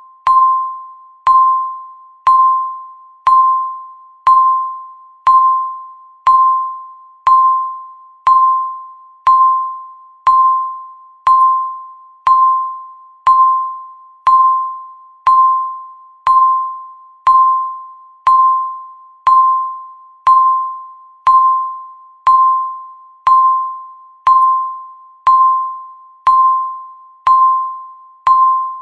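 Countdown timer beeping once a second. Each beep is a single clear chime-like tone that strikes sharply and fades away before the next one.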